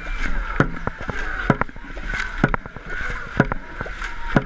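Dragon boat under way: sharp rhythmic knocks, the strongest about once a second with weaker ones between, over steady rushing water.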